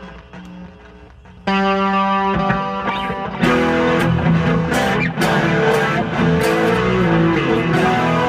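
Mexican-made Fender Stratocaster electric guitar played on its bridge pickup: after a fading tail, a chord is struck about a second and a half in and left ringing, then more chords and picked notes follow.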